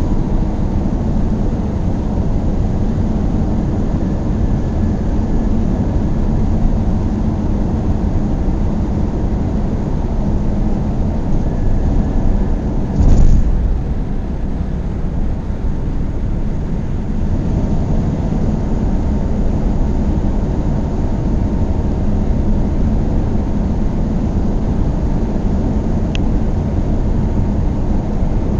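Car driving at a steady speed: continuous engine and tyre road noise, with a brief loud thump about halfway through.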